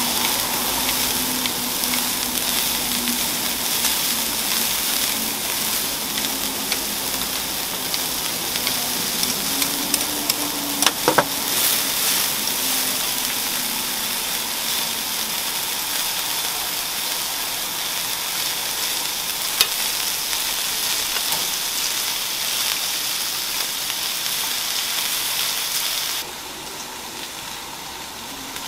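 Bean sprouts, chives and luncheon meat sizzling steadily on a hot flat-top griddle, with a few sharp metal clicks of tongs and scissors against the plate. Near the end the sizzle drops away to a quieter background.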